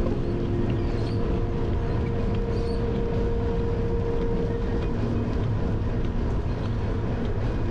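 Steady rumble and rattle of a bicycle rolling over a gravel and dirt trail, picked up by a camera mounted on the handlebars.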